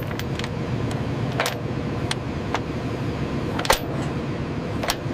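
A vehicle engine running steadily at idle, a low rumble with a faint steady hum, with sharp clicks scattered through it about once a second.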